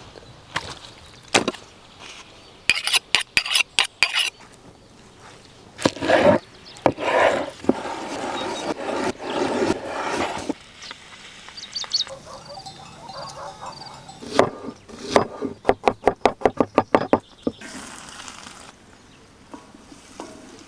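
Food preparation by hand: a knife chopping quickly on a wooden board in two runs of even knocks, with clinks of utensils and stretches of rustling and scraping between them.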